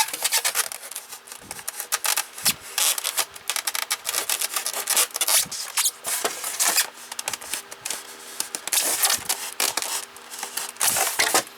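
Small utility knife blade sawing through a polystyrene foam box, a run of irregular rasping, scraping strokes as it cuts a round hole.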